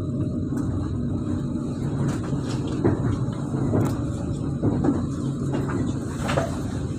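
ЭПМ/ЭПР electric multiple-unit train running on the rails: a steady rumble of wheels and running gear, broken by a few irregular sharp wheel knocks, the loudest near the end.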